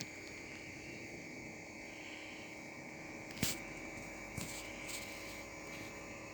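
Low steady electrical hum with a thin high whine, broken by one sharp click about three and a half seconds in and a few lighter clicks after it.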